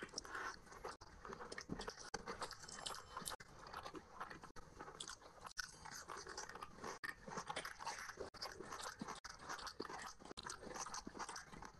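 Close-miked chewing and crunching of a mouthful of rice and curry topped with crispy fried onions, eaten by hand: a continuous stream of small crackles and crunches.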